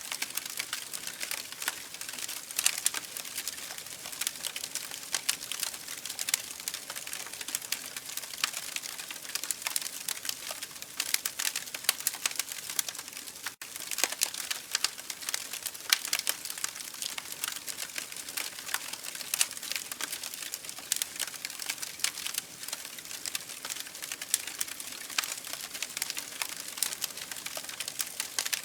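Campfire burning, wood crackling and popping continuously over a steady hiss, with a split-second gap about halfway through.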